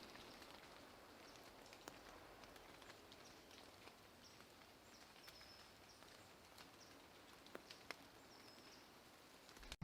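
Faint outdoor ambience of light rain: a soft steady hiss with scattered drips ticking, and a few short high bird chirps.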